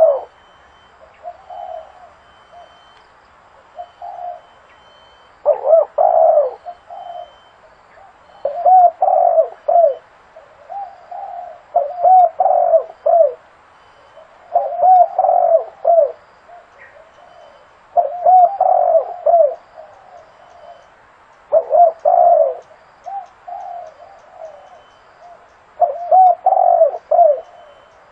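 Spotted dove cooing: short phrases of several coo notes repeated every three seconds or so, with softer single coos between them.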